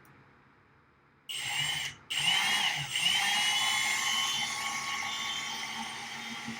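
Power drill boring out an existing hole in a rack case rail. A short burst about a second in, a brief stop, then a steady whir that slowly gets quieter.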